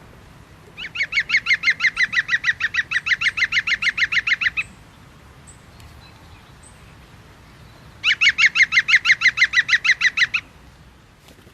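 A bird calling in two long runs of rapid, evenly repeated notes, about eight a second: the first lasts nearly four seconds, the second starts about eight seconds in and lasts about two seconds.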